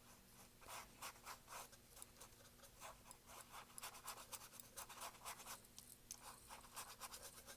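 Paintbrush scrubbing acrylic paint onto a canvas: faint, quick scratchy strokes, several a second, starting shortly after the beginning.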